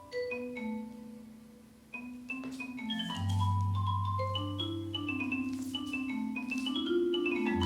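Electronic sound driven by a wearable motion sensor: a run of short pitched notes stepping up and down and overlapping, with a low steady hum that comes in about three seconds in.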